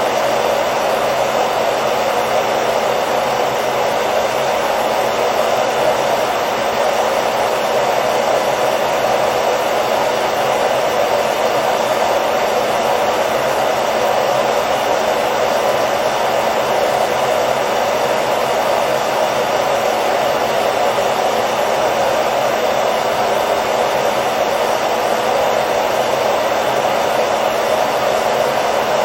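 Hair dryer running steadily: a continuous, even blowing noise with a faint motor hum, unchanging throughout.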